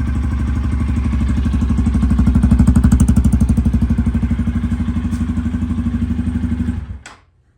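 Honda XR150L's air-cooled single-cylinder four-stroke engine idling from a cold start with no choke, jetted with a 115 main and an aftermarket 35 pilot jet. It runs as a steady chain of exhaust pulses, a little louder for about a second some two and a half seconds in, and stops about seven seconds in.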